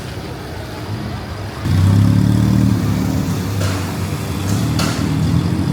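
A motor vehicle's engine comes in loud and close about a second and a half in and keeps running steadily, over a steady hiss of rain. Two short sharp knocks sound in the middle.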